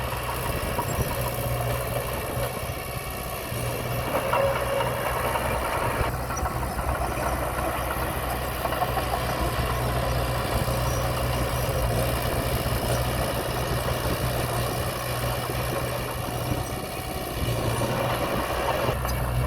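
Heavy earthmoving machinery running steadily: a deep engine drone with a rough, clattering noise over it.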